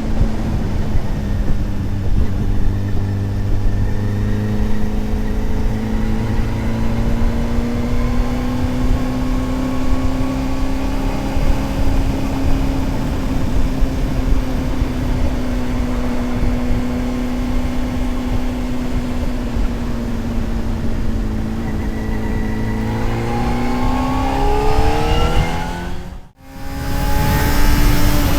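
Honda CBR600RR inline-four sportbike engine running at steady cruising revs under heavy wind rush, then rising in pitch as the throttle opens about three-quarters of the way through. The sound cuts out completely for a split second, then the engine carries on at a steady pitch.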